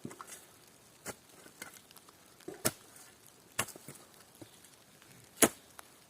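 Irregular sharp knocks and clicks, four louder ones a second or two apart, the loudest about five and a half seconds in.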